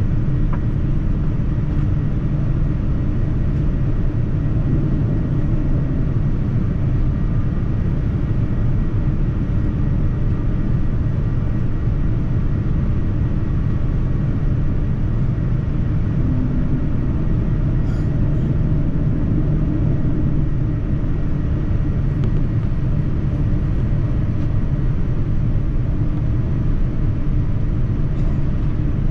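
Steady low rumble of airliner cabin noise inside a Boeing 787-9: engine and airflow noise.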